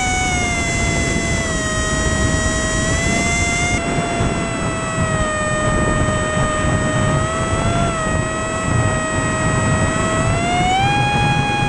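Electric motor and propeller of a cardboard RC airplane running, a steady whine whose pitch dips just after the start and climbs again near the end as the throttle changes.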